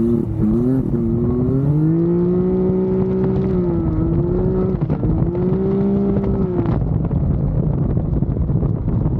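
Can-Am Maverick X3 side-by-side's engine running hard on track, its note rising and dipping with the throttle. About two-thirds of the way through the engine note drops away, leaving a rough rumble.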